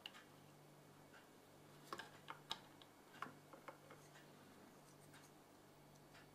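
Near silence: a faint steady hum, with a scatter of small sharp clicks and taps about two to four seconds in.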